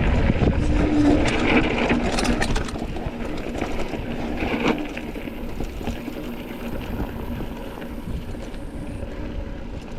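Wind rushing over the microphone with the rattle of a mountain bike over rough trail, louder for the first few seconds and then easing.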